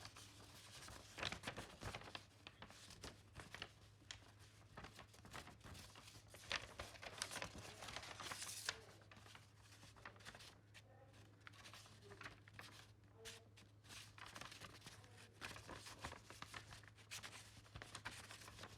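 Faint pencil scratching on paper in many short strokes, over a steady low electrical hum.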